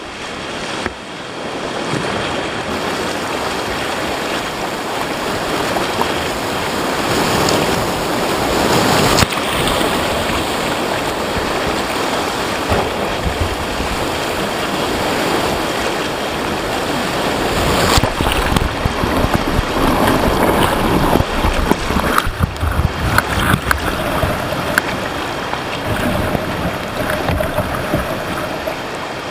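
River whitewater rushing loudly through a rapid, with sharper splashes breaking in over the second half.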